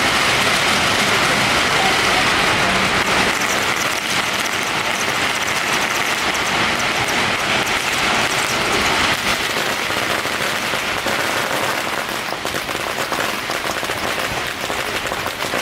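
Dense, continuous crackle of strings of firecrackers going off together, a rapid rain of small bangs that eases slightly after about four seconds.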